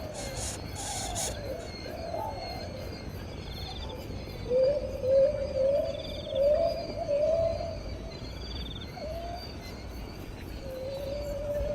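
Bird calls: low, wavering whistled calls, the loudest and longest from about four and a half to eight seconds in, with faint high chirps and a short repeating buzzy note in the background.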